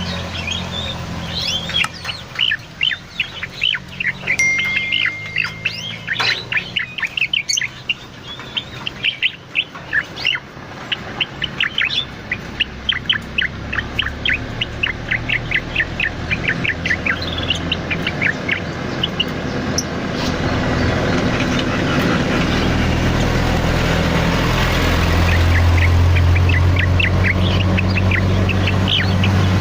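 Cucak loreng songbird singing busily: a long run of rapid chirps and short whistled notes, one after another. A steady low hum sits underneath and grows louder in the second half.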